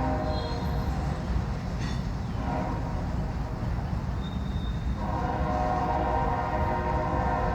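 BNSF freight train's diesel locomotives rumbling steadily while the multi-chime air horn sounds: a long blast ending just after the start, a short blast about two and a half seconds in, then a long blast from about five seconds on.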